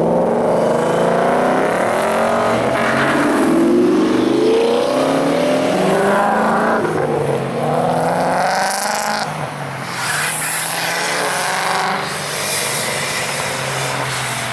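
Muscle car engine accelerating hard, its pitch climbing and dropping back several times as it shifts up through the gears.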